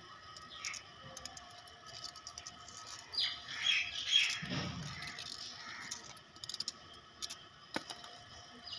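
Small birds chirping, with a louder burst of high chirps a little past the middle.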